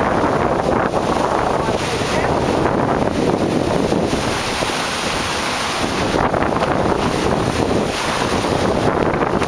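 Steady wind buffeting the microphone on a cruising boat, over a continuous rush of water.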